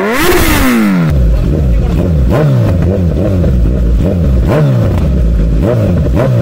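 Kawasaki Z900's inline-four engine through an Akrapovic titanium full-system exhaust, revved again and again, its pitch rising and falling about once a second.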